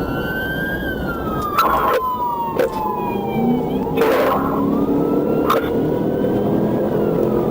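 Police car siren wailing, its pitch sliding slowly up and down over road and engine noise, with a few sharp clicks.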